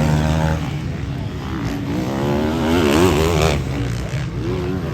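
Motocross bike engines revving, the pitch rising and falling repeatedly as the throttle opens and closes. One rise near the middle cuts off sharply.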